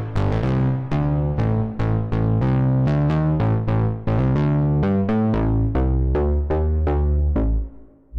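Waldorf Pulse 2 analog monosynth playing a bass preset: a running line of short notes, each opening bright and quickly closing down as the filter envelope decays. The line stops about seven and a half seconds in.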